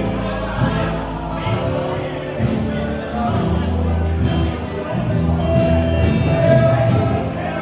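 A live band playing a song, with steady drum and cymbal strokes, low bass notes and a singing voice.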